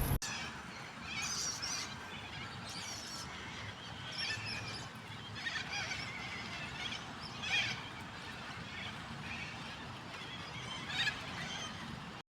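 Birds calling in short, high, chattering bursts every second or two, a little louder at about 7.5 seconds and again near the end.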